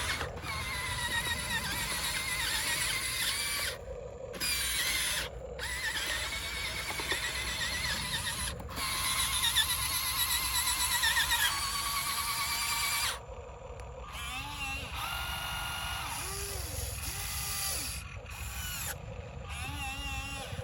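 Electric motor and plastic gearbox of a radio-controlled dump truck whining under load. The pitch wavers up and down with the throttle, and the sound breaks off abruptly several times.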